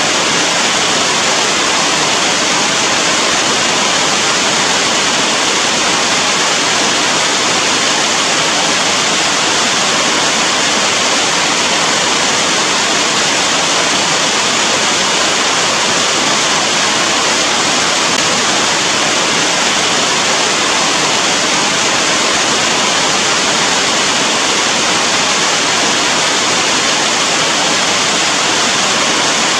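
Steady heavy rain: an even, unbroken rushing hiss with no single drops standing out.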